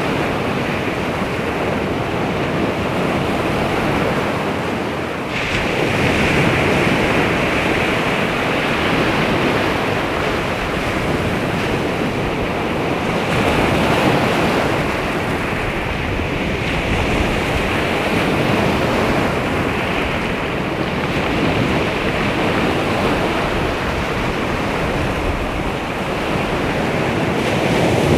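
Baltic Sea waves washing onto the shore, a continuous rushing surf that swells and ebbs every few seconds, with wind rumbling on the microphone.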